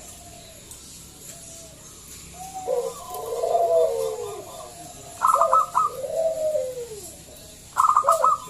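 Zebra dove cooing: phrases of warbling, falling coos. About five seconds in and again near the end, a quick burst of rapid staccato notes is the loudest part.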